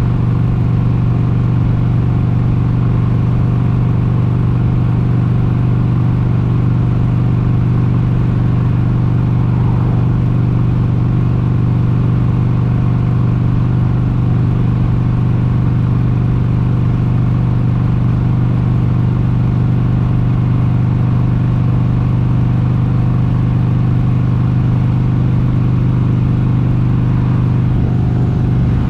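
1996 Harley-Davidson Sportster 883's air-cooled 883 cc Evolution V-twin engine running at a steady, unchanging speed, a constant low rumble with no revving.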